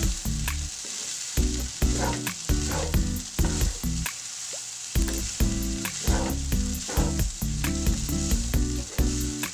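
Fried rice sizzling in a nonstick frying pan while a spatula stirs and turns it, over background music with a steady beat.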